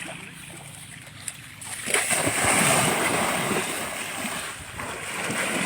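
Pool water splashing and churning as a baby Asian elephant plays in it. The splashing starts suddenly about two seconds in, is loudest for the next second or so, eases, and then builds again near the end.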